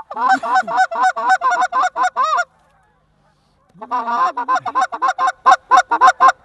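Canada goose call blown close by in two runs of rapid, evenly spaced honks and clucks, about five a second. The runs are separated by a pause of just over a second.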